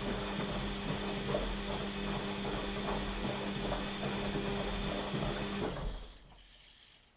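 Washing machine running its drum motor with a steady hum and irregular soft knocks. The motor stops abruptly a little before six seconds in, and the sound falls away to near silence, as the drum pauses between turns in the wash cycle.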